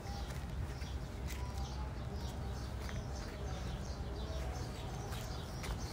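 Small birds chirping over and over in the farm trees, short high calls every fraction of a second, over a steady low rumble.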